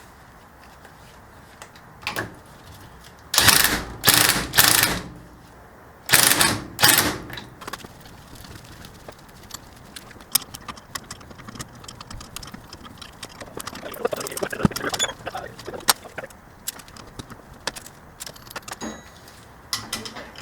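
Hand work on a coilover shock assembly: three loud rasping mechanical bursts, then two more a second later, followed by a long run of light metallic clicks and taps.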